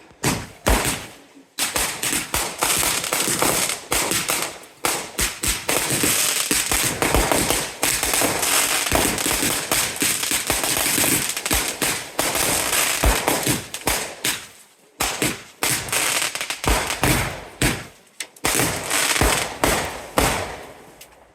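Fireworks going off in a rapid, dense barrage of bangs and crackles, with a few short lulls, dying away near the end.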